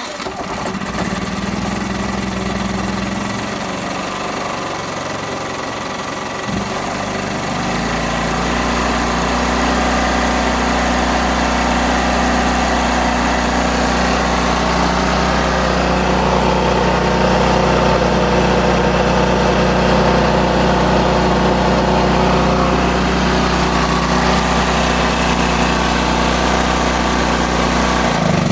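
Powerhouse PH3100Ri generator engine catching immediately on the remote start and running steadily, its choke now held fully closed by a doubled-up spring, which cures its hard starting. About seven or eight seconds in, the engine note changes and settles into a fuller, steady hum.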